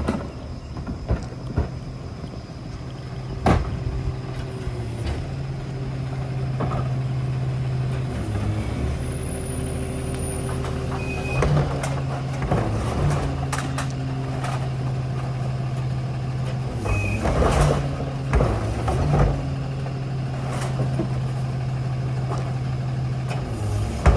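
Ford F-750 garbage truck's engine running at a steady drone that steps up and down in pitch several times, with scattered clanks and two brief high squeals.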